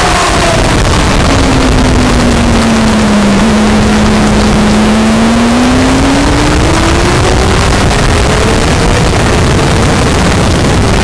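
Sport motorcycle engine heard from an onboard action camera under heavy wind rush: the revs drop over the first few seconds, stay low briefly, then climb steadily as the bike accelerates again.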